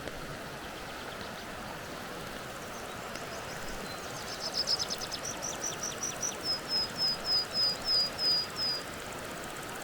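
A songbird sings a long phrase of high notes: a quick run of notes, then about a dozen evenly spaced down-slurred notes, about three a second, ending near the end. Beneath it is a steady hiss of water in a wet forest.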